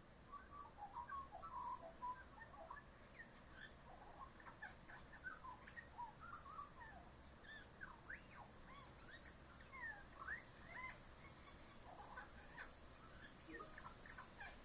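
Magpie singing a quiet, rambling string of short chirps, whistles and quick rising and falling notes, much of it mimicry of the calls of other local birds.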